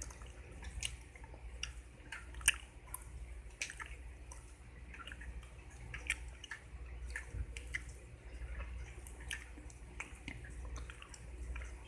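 Close-miked gum chewing, deliberately exaggerated: irregular wet smacks and clicks of the mouth working a piece of gum, one sharper smack about two and a half seconds in.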